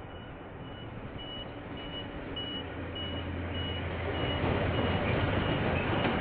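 KiwiRail diesel-hauled train approaching, its low engine hum growing steadily louder, with a high electronic beep repeating a little under twice a second.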